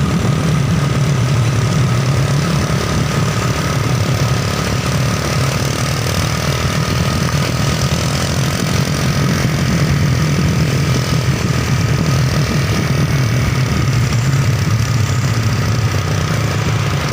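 A truck engine running steadily at low revs, idling or crawling, with no change in pitch.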